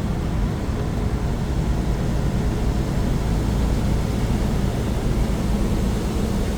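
Bobtail semi-truck tractor's diesel engine running steadily with road noise as it drives down a hill.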